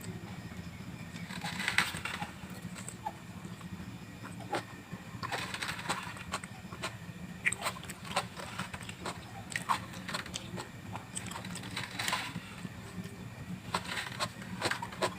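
Close-up chewing and crunching of raw vegetables: irregular crisp crunches and small mouth clicks, with a few longer crackly bites, over a steady low background hum.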